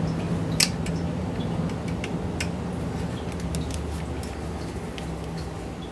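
Scattered small clicks of a screwdriver and tiny screws being worked out of a graphics card's plastic fan housing, over a steady low hum that slowly fades.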